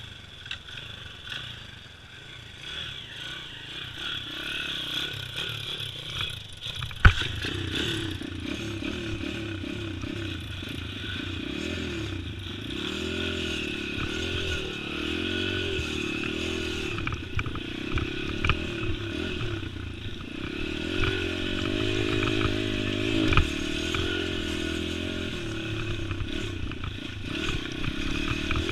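Pit bike engine being ridden off-road, revving up and down with the throttle, with rattles and knocks from the bike. It is quieter for the first quarter, then a sharp knock and the engine gets louder and keeps rising and falling in pitch.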